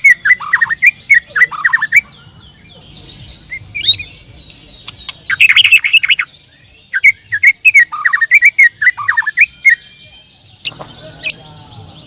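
White-rumped shamas (murai batu) singing in bursts of rapid, varied phrases of sweeping whistles and sharp chips, with short pauses between the bursts.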